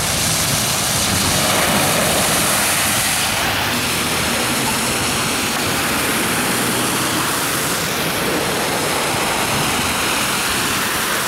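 Fast-flowing floodwater rushing, a loud, steady wash of noise.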